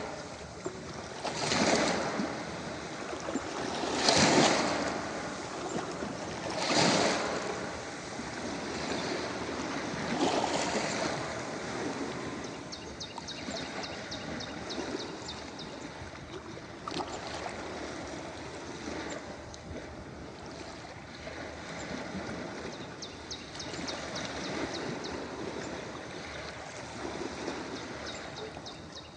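Ocean waves breaking and washing up a beach: four or five loud surges in the first ten seconds or so, then a steadier, quieter wash with a faint crackle of fizzing foam.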